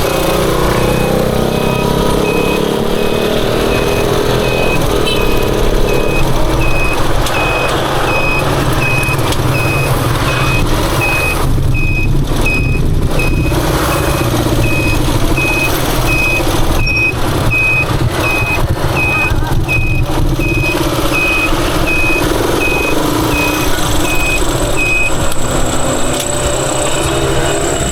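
Motorcycle engine running, with a regular series of short high-pitched beeps about every 0.7 seconds that stop a few seconds before the end.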